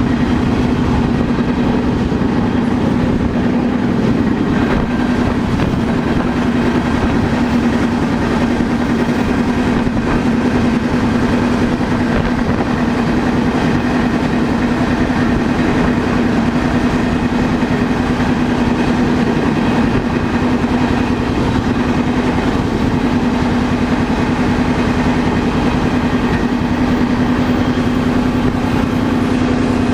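A freight train rolling along, heard from on board a car: a steady, loud rumble with a constant low hum running through it.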